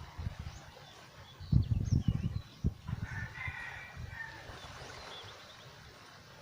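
A drawn-out animal call about three seconds in, with short high bird chirps around it, after a run of low thumps on the microphone.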